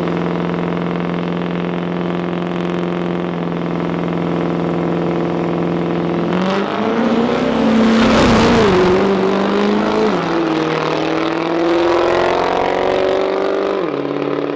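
Turbo-diesel drag trucks running. One engine holds a steady note, then a louder vehicle sound swells and fades about seven to nine seconds in. After that an engine's pitch climbs slowly and then drops sharply near the end, as at a gear shift.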